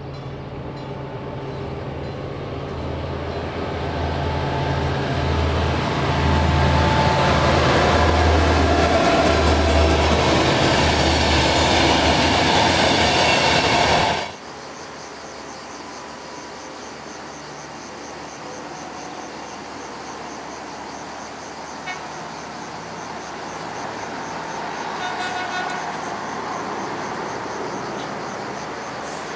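Diesel locomotive hauling a passenger train, approaching and passing close by: a pulsing engine rumble under wheel and coach noise that grows to its loudest, then cuts off abruptly about halfway through. After that, a diesel multiple unit approaches slowly with a quieter steady hum and a single click.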